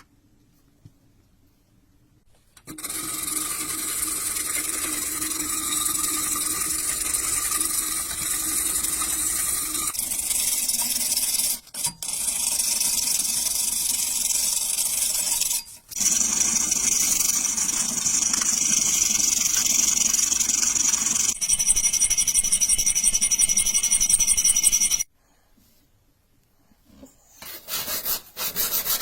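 Steel blade being shaped by abrasion, a continuous rasping grind on the metal, in several stretches that change abruptly with short pauses between them.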